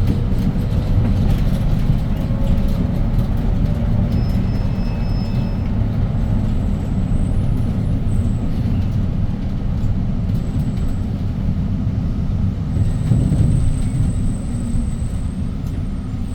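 City bus running on the road: the 240 hp C6GB six-cylinder CNG engine of a Hyundai Green City bus, with a dense, steady low rumble of engine and road noise. The engine note rises slightly in pitch over the first few seconds.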